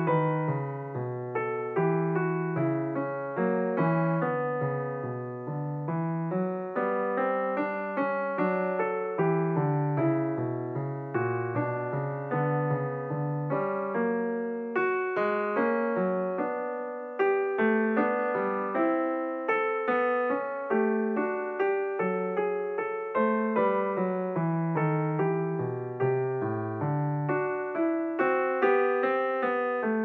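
Background piano music: a steady run of struck notes and chords over a low bass line, each note dying away after it is played.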